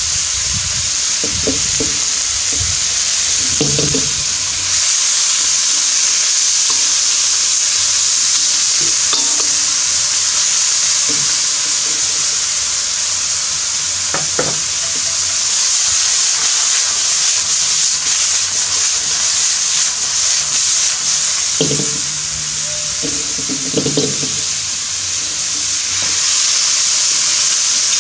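Stir fry sizzling in a hot round-bottom wok: a steady high hiss of frying, with a few short scrapes and clanks of the spatula against the wok near the start, midway and a few seconds before the end.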